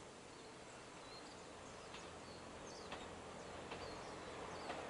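Quiet outdoor ambience with short bird chirps several times, as the faint sound of an approaching JR Shikoku 2700 series diesel train slowly grows louder.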